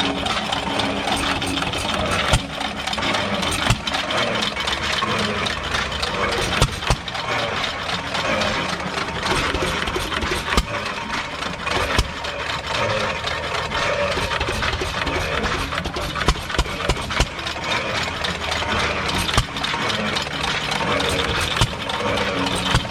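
Fuller & Johnson hit-and-miss engine driving a water pump, firing with sharp knocks at irregular intervals, mostly a second or two apart, and coasting between fires, over a steady background of mechanical noise.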